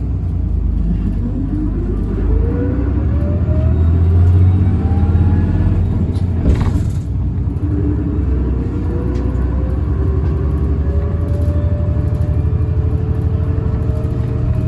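Inside a Tokyu city bus accelerating: steady engine rumble under a whine that climbs in pitch as the bus gathers speed. A short hiss about six and a half seconds in is followed by a second rising whine that levels off. The whine is the abnormal motor noise this bus (fleet no. H854) is known for.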